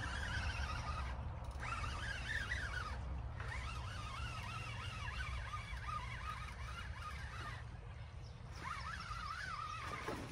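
Birds singing in warbling, wavering phrases that come and go, over a steady low rumble of wind on the microphone.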